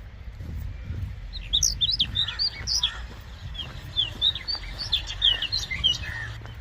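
Birds chirping: a rapid run of many short, high chirps that starts a little over a second in and lasts until near the end, over a low steady rumble.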